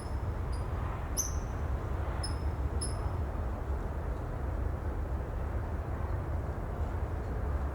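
Steady outdoor ambience: an even, low rumbling noise, with a string of short, high chirps about twice a second that stops about three seconds in.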